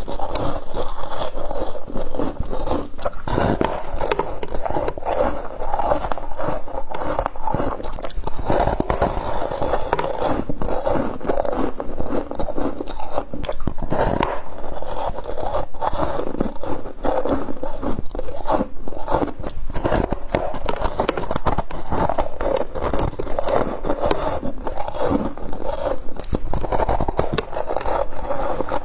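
Frost being bitten, chewed and scraped, a dense, continuous crunching and crackling of packed ice crystals.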